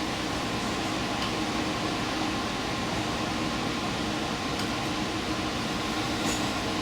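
Steady rumble and hum of a diesel limited express train heard from behind the driver's cab, with no change in level.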